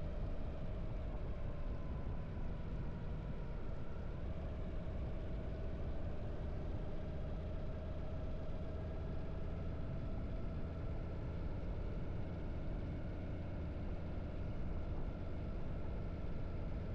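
Harley-Davidson V-twin motorcycle engine running steadily on the move, its pitch drifting only slightly.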